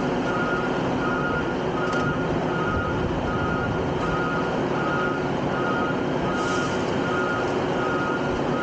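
Garbage truck's reversing alarm beeping steadily about once a second over its running diesel engine and machinery noise.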